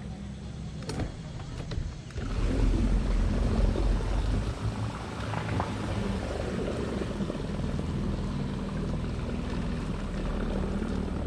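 A small boat's motor running under way, with water and wind hiss over it. It gets louder about two seconds in and then holds steady.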